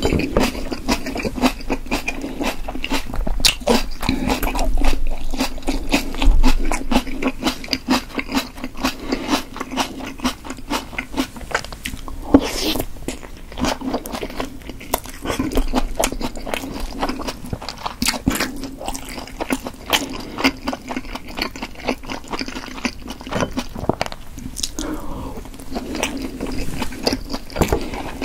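Close-miked chewing of steamed potato dumplings and a raw red pepper, with many wet mouth clicks and smacks and a few crunchy bites.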